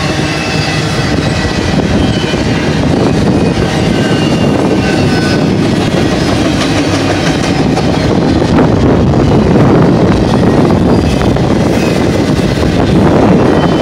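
Double-stack intermodal train's well cars rolling past, a loud steady rumble of steel wheels on rail with scattered clicks and brief high-pitched squeaks.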